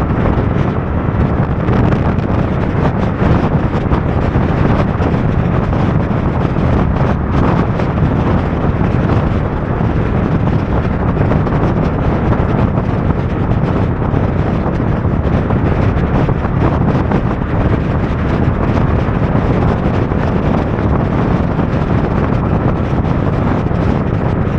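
Steady wind noise battering the microphone of a Honda NT1100 motorcycle riding at speed through wind and rain, with the bike's engine and wet road noise mixed underneath.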